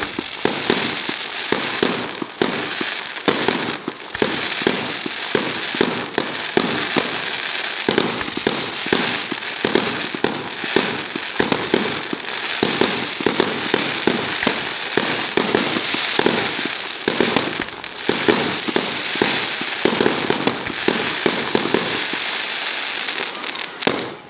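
Fireworks going off in a dense, unbroken barrage: many sharp bangs and cracks in quick succession over a steady crackling hiss, dying away just before the end.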